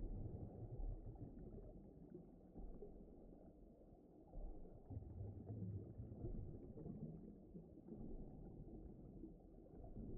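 Faint, low rumbling underwater ambience that swells and eases every few seconds.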